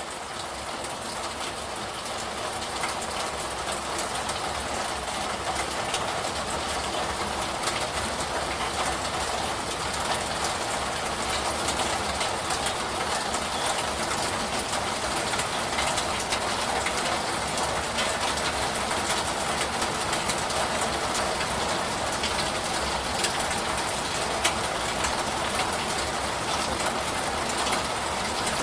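Steady rain: a dense, even hiss with fine scattered drop ticks, fading in over the first few seconds and then holding level.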